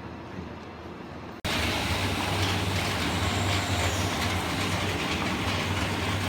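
A low background that jumps abruptly, about a second and a half in, to a loud, steady machine noise with a low hum and hiss: a PVC flexible duct forming machine running.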